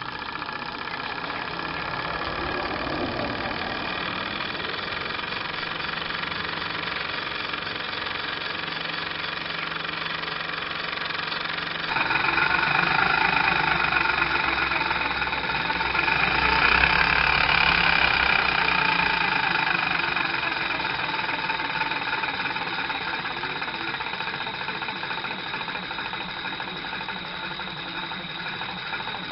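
Small model flash-steam engine running with the pump coupled directly to it, a steady mechanical running sound. About twelve seconds in it suddenly gets louder, swells for a few seconds, then slowly eases off.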